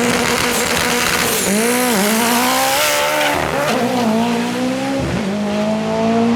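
Drag race car engine held at high revs, its pitch then dipping and climbing several times, over a hiss of tyre noise.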